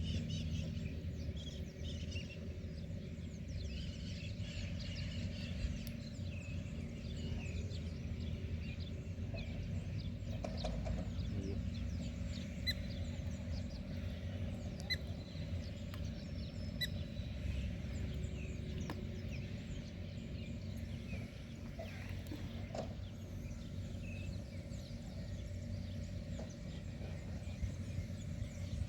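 Outdoor ambience of birds chirping and calling over a steady low rumble, with one short, clear high note heard three times about midway.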